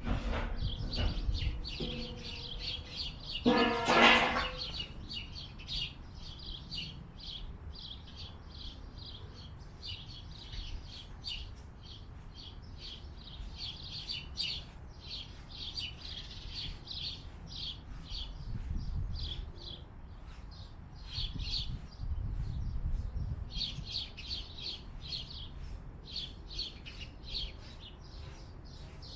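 Small birds chirping, with many short, rapid chirps running on with brief gaps. One louder pitched sound stands out about four seconds in.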